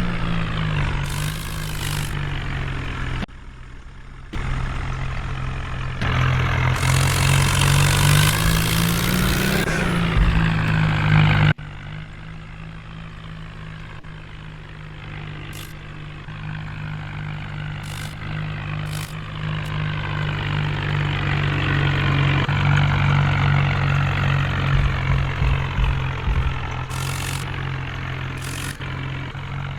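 Heavy diesel engine of farm or construction machinery running, revving up for a few seconds and then settling back to a steady idle; the sound cuts abruptly twice, as at edits, and a few short hisses come through later.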